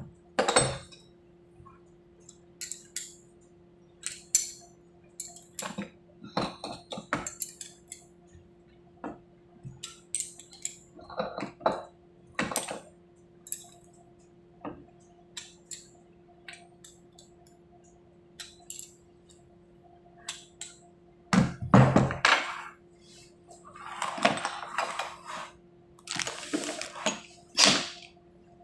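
Small metal parts of a pneumatic cylinder clinking and tapping as they are handled, with a louder knock a little past the middle and two longer noisy stretches near the end. A steady low hum runs underneath.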